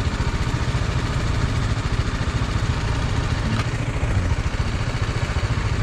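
Motorcycle engine running at low revs, a steady, even low rumble.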